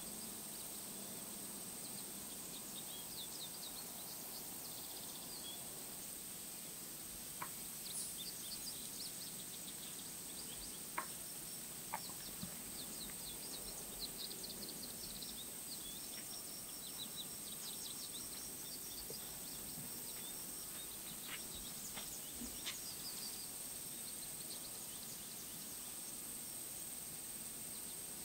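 Quiet woodland ambience: a steady faint hiss with small birds giving short, high chip notes in scattered bursts, and a few sharp clicks.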